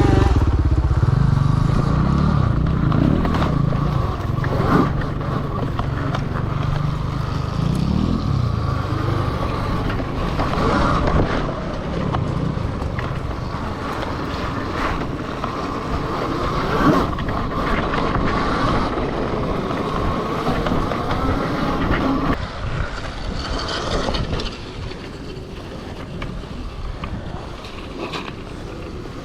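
Elmofo-converted CRF electric dirt bike being ridden off-road: the electric motor and drivetrain whine under a heavy rush of wind on the microphone, with occasional knocks. The sound eases off about two-thirds of the way through.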